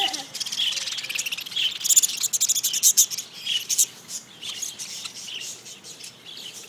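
A flock of budgerigars chattering: many rapid high chirps and warbles overlapping, busiest and loudest about two to three seconds in.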